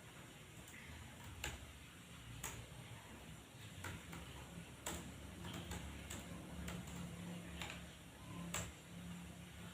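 Computer keyboard keys struck one at a time during a typing drill: sharp clicks at an uneven, unhurried pace, about one or two a second, over a low steady hum.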